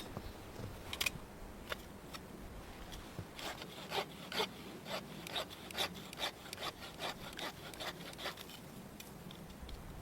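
Hand saw cutting through wood in quick back-and-forth strokes, about two a second, with a few sharp clicks before the sawing starts.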